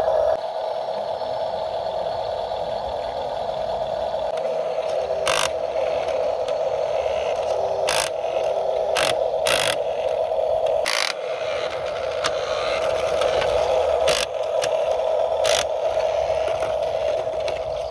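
Radio-controlled construction model's motor running with a steady whine, with sharp clicks and scrapes about seven times.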